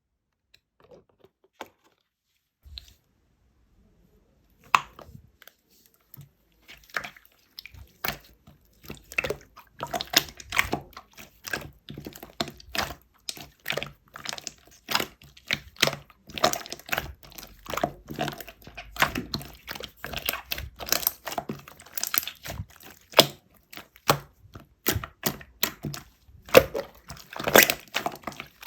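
Close-miked eating of avocado ice cream: a dense run of small wet clicks, smacks and bites with chewing, sparse at first and continuous from about five seconds in.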